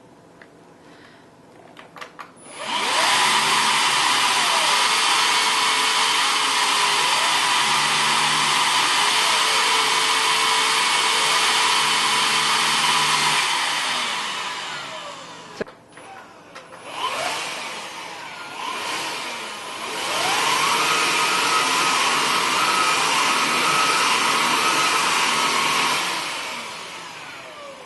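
Hoover Impulse cordless stick vacuum running with a steady high whine. It is switched on about two and a half seconds in and runs down and stops about a dozen seconds later. It is started again and spins up to a higher pitch, then runs down near the end.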